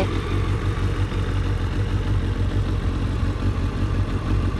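2000 Suzuki Hayabusa's 1299 cc inline-four engine idling steadily on freshly replaced spark plugs.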